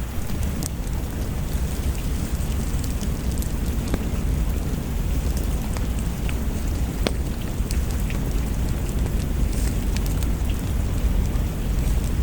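Steady rain on the cabin with a deep, constant low rumble. Scattered sharp pops and crackles from a wood fire in a fireplace come through it.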